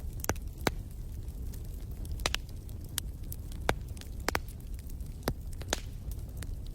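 Wood campfire crackling: irregular sharp snaps and pops, several a second at times, over a steady low rumble of the burning fire.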